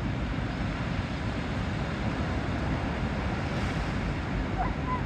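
Ocean waves washing in and breaking against rocks: a steady rushing surf noise.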